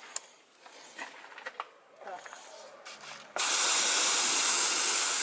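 Paint spray gun spraying acrylic paint: a steady hiss that starts suddenly a little over three seconds in. Before it there are a few faint clicks of handling.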